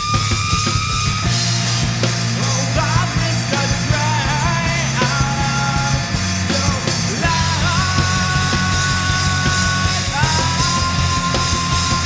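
Progressive hard-rock band recording playing at full volume: drums, bass and distorted guitars under a high lead line of long held notes that slide and bend into pitch.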